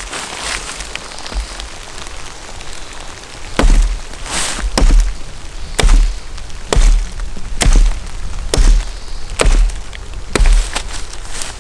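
A steady hiss, then from about three and a half seconds in a run of about nine sharp chopping strikes, roughly one a second, each with a heavy low thud.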